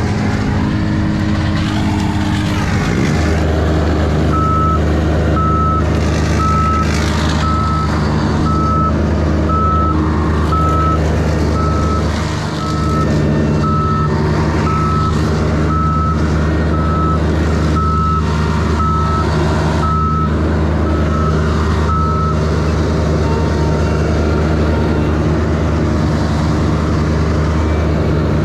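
Heavy vehicle engine running steadily, picking up speed about three seconds in, with a backup alarm beeping evenly as it reverses; the beeping stops about three-quarters of the way through.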